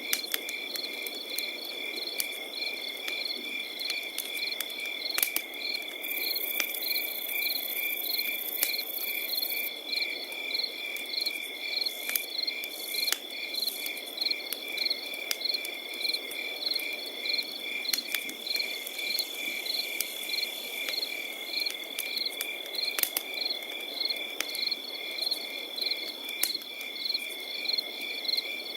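Crickets chirping in a steady rhythm over a continuous high trill, with a campfire crackling and giving occasional sharp pops.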